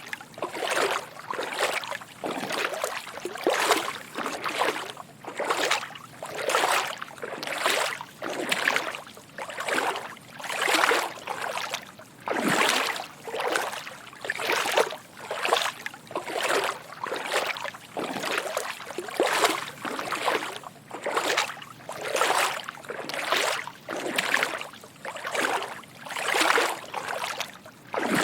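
Footsteps wading through shallow water, an even walking rhythm of soft sloshing splashes, a little more than one step a second.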